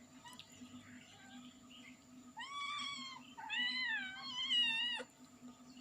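A cat meowing twice: a short arched meow, then a longer, louder meow that wavers in pitch and cuts off suddenly.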